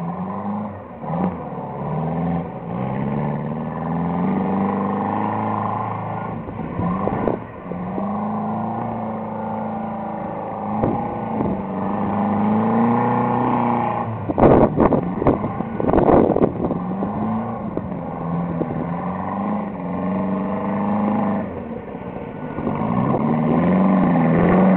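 Fiat 600's small rear-mounted four-cylinder engine revving up and down over and over as the car is driven hard in circles on mud, its pitch climbing and dropping with each run. A few loud rough bursts of noise come about halfway through.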